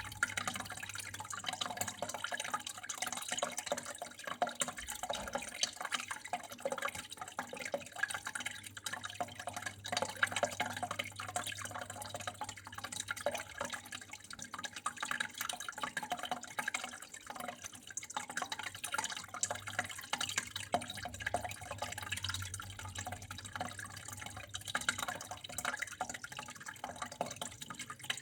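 Water flowing and trickling continuously, with a dense patter of small drips and splashes and a faint low hum underneath.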